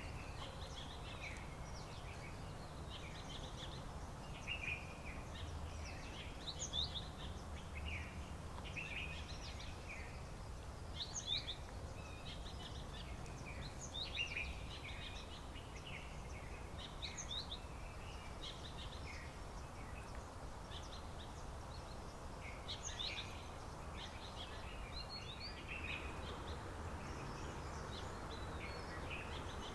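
Wild birds chirping and calling: many short, high notes from several birds, coming every second or so, over a steady low rumble.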